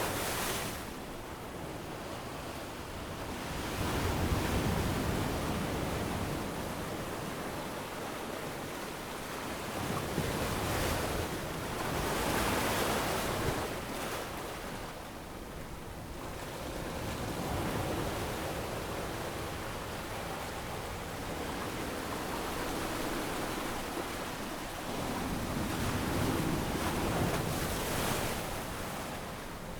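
Ocean waves breaking and washing up on a sandy beach, a steady surf that swells and ebbs every few seconds.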